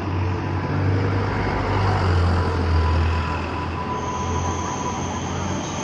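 Electric train running along the tracks: a steady low rumble of wheels on rails that swells and then eases, with a thin steady whine in the middle and a higher-pitched whine coming in about four seconds in.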